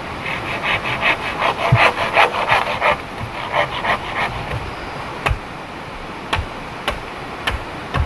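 A hand tool working bamboo in rhythmic rasping strokes, about four or five a second, for roughly four seconds. Several sharp single knocks follow, all under steady heavy rain.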